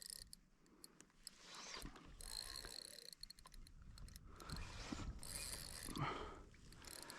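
Fishing reel working under load as a skipjack tuna is fought on light gear: faint mechanical clicking and whirring of the reel, with runs of quick clicks.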